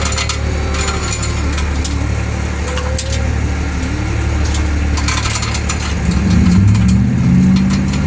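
An engine running steadily, its pitch rising and falling about six seconds in, with scattered clicks and knocks.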